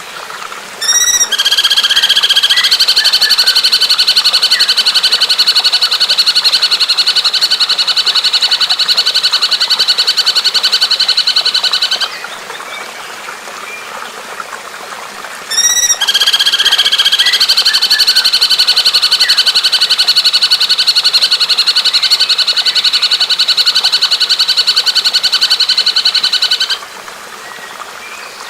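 Recorded bird song for masteran training: twice, a bird gives a few quick rising notes and then a long, very rapid, even trill, each bout lasting about eleven seconds, over a faint steady sound of trickling water.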